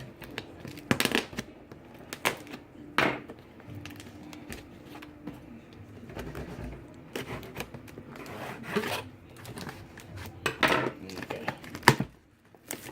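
Packaging being handled and pried open: scattered sharp clicks and knocks with soft rustling, about half a dozen distinct knocks spread irregularly.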